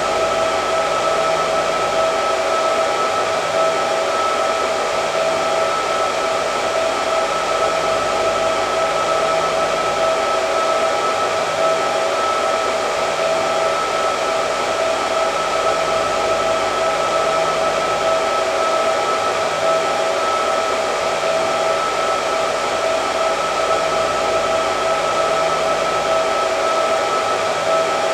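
Hair dryer running steadily: a constant rush of air with a steady high whine from the motor and fan.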